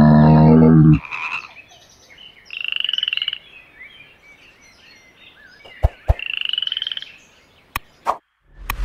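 A frog calling: two buzzy, rapidly pulsed croaks, each under a second long and about four seconds apart. A loud, deep animal call cuts off about a second in, and a few sharp clicks come near the end.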